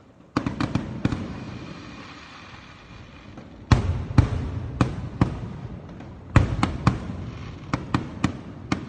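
Aerial firework shells bursting in three volleys of sharp bangs, starting about half a second in, near four seconds in, and about six and a half seconds in, with crackling and hiss between the bangs.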